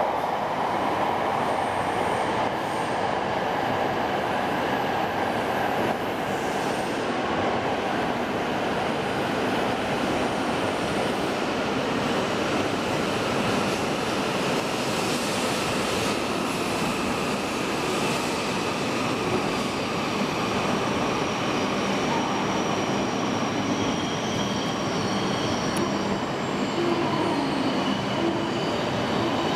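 Passenger train running on rails: a steady rumble of wheels and running gear, with faint high squealing tones coming in over the second half.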